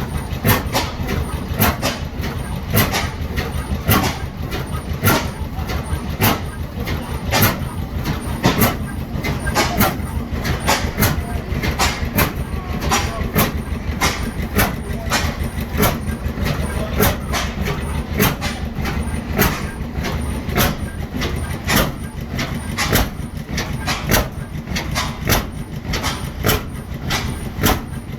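Ajax Ball half-breed oilfield engine, a steam engine converted to run as a gas engine, running steadily with sharp, evenly spaced beats about twice a second.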